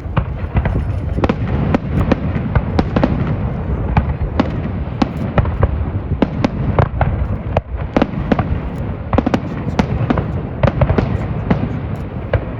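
Fireworks display going off: a rapid run of sharp bangs and crackling, several a second, over a constant low rumble.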